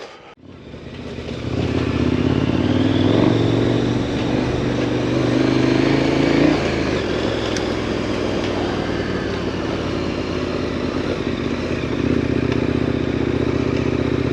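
2018 KTM 1090 Adventure R's 1,050 cc LC8 V-twin running under way, building up over the first two seconds and then holding steady, with a change in engine note about six and a half seconds in.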